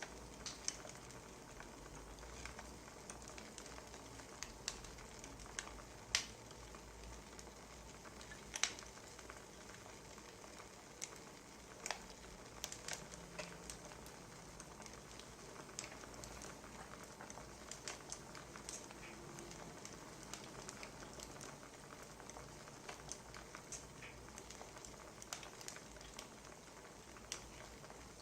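Wood fire crackling: irregular small pops and snaps, a few of them sharper, over a steady low rumble.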